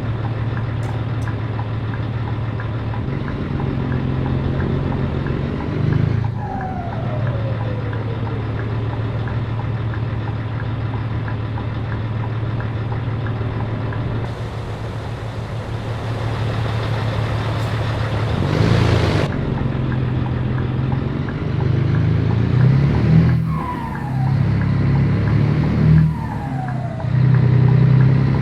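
Scania 113 truck's diesel engine running while driving, with several gear changes where the engine sound drops out briefly, its pitch falling, and then picks up again. The pulls come in closer succession near the end. A brief loud hiss comes about nineteen seconds in.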